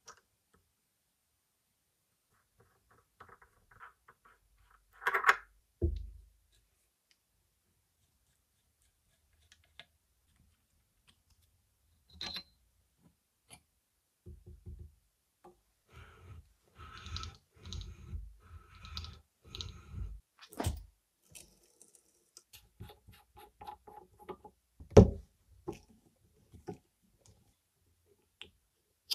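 Steel suspension parts and hand tools being handled on a workbench: scattered clicks and knocks, two loud clanks about five and six seconds in, a run of quick knocks from about fourteen to twenty-one seconds, and one sharp knock about twenty-five seconds in.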